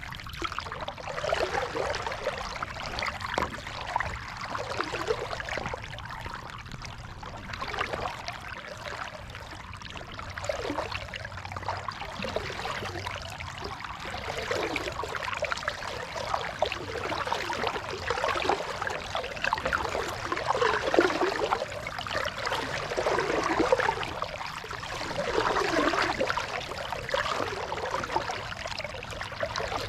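Water splashing and dripping from a kayak paddle's strokes, swelling every two to three seconds.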